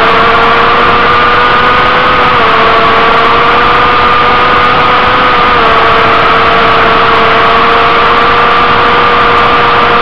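Inline-four sport motorcycle engine running hard at speed, its pitch creeping up and dipping slightly about two and a half and five and a half seconds in, under heavy wind rush on the onboard microphone.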